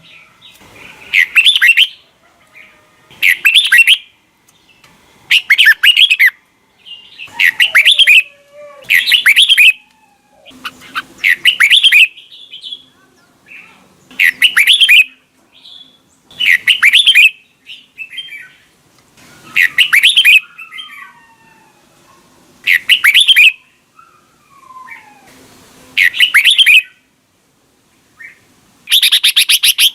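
Red-whiskered bulbul song: a short, loud phrase repeated every two to three seconds, with fainter chirps and gliding calls between the phrases.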